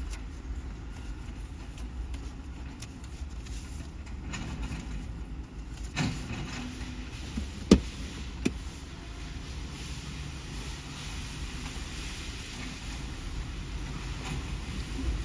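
Diesel engine of a Scania recycling truck running with a steady low rumble, with three sharp knocks about halfway through, the second one a loud bang.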